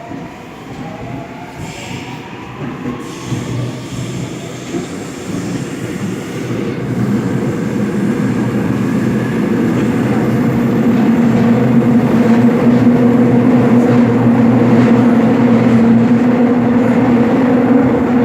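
Seoul Metro Line 7 subway train gathering speed between stations: wheel-on-rail rumble and motor noise grow steadily louder for about ten seconds, then settle into a loud, even run with a steady hum underneath.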